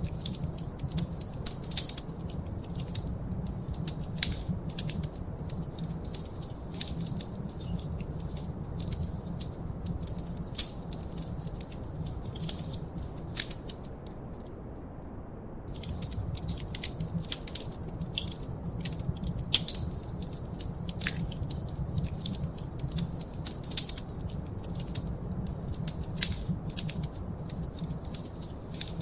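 Fire crackling in a fireplace: irregular sharp pops and snaps over a low, steady rumble of the flames. The crackles drop out for about a second about halfway through while the rumble goes on.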